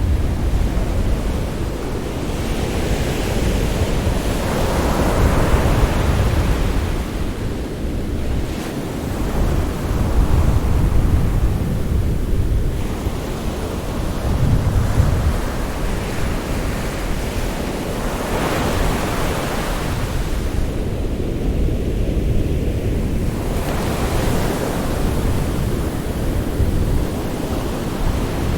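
Sea waves breaking and washing on a shore, a continuous low rumble with a swell of hiss every five to seven seconds as each wave comes in.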